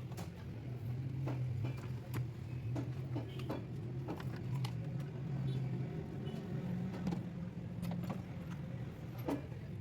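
A steady low mechanical hum with frequent sharp metallic clicks and clinks of hand tools being worked on car parts.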